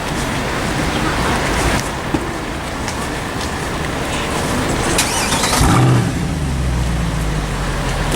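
Car engines and street traffic, with a brief louder passage about five seconds in; after that a deep, steady engine drone.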